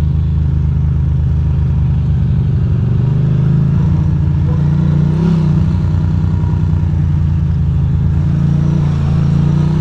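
Ducati Monster 620's air-cooled L-twin engine running steadily at low road speed, its pitch rising slightly about three seconds in.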